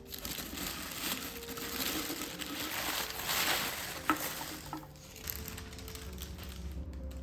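Rustling, crinkling noise, like paper or plastic being handled, over quiet background music, with one sharp click about four seconds in.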